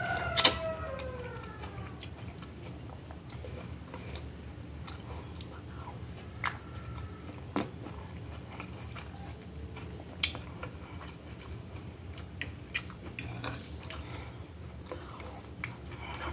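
Close-miked chewing of a mouthful of boiled vegetable: soft wet mastication with scattered sharp clicks and smacks, the loudest about half a second in, over a steady low hum.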